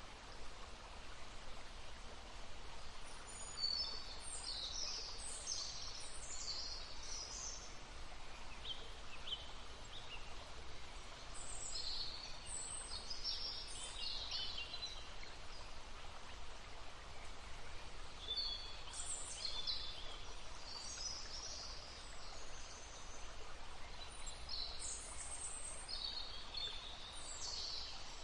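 Songbirds singing in short, high, quick phrases that come in clusters every few seconds over the steady rush of a babbling stream.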